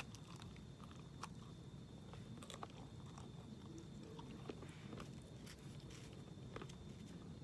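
Faint chewing of a bite of frozen chicken burrito whose tortilla shell has gone hard, with scattered soft crunches.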